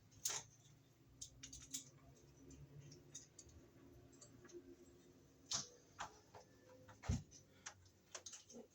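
Scattered small metal clicks and taps as a Romex cable connector is worked into the knockout of a metal Wiremold box piece. Three sharper clicks stand out: right at the start, about halfway, and about seven seconds in, the last with a dull knock.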